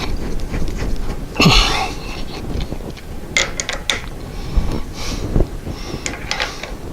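Metal parts and hand tools being handled at a machine shop bench: scattered clinks and clicks with a short scrape about a second and a half in, as bolts are tightened down.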